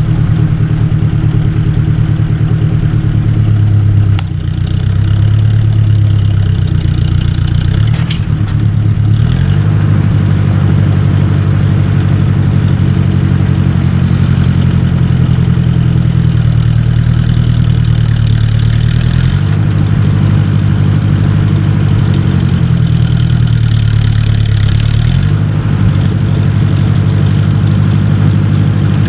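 1953 Ford Jubilee tractor's four-cylinder gasoline engine running loudly, its speed stepping up and down several times as it pulls on a chain. There is a single sharp knock about eight seconds in.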